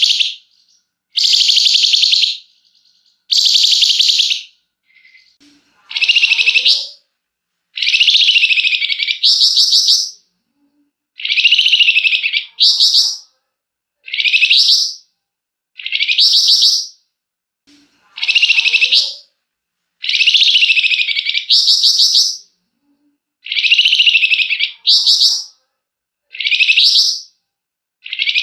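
Flamboyan songbird singing a harsh, rattling buzzy song ('ngebren'): loud bursts of about a second, repeated about every two seconds, many ending with a short higher note.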